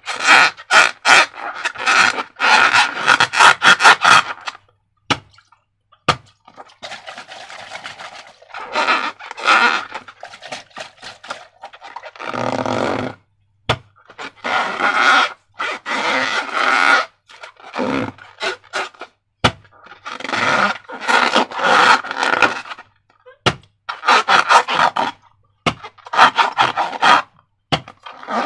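Sticky slime being squished and worked, in repeated bursts of wet clicking and crackling, each one to a few seconds long with short pauses between.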